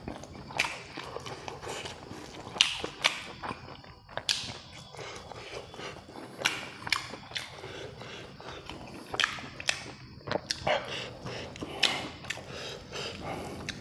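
Eating KFC fried chicken: biting and chewing, with irregular crisp crunches and mouth smacks.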